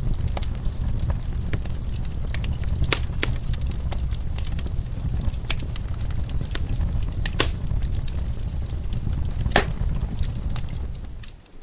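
Wood fire crackling in a fireplace: a steady low rumble of the flames under irregular snapping pops, a few of them louder. The sound briefly drops away just before the end.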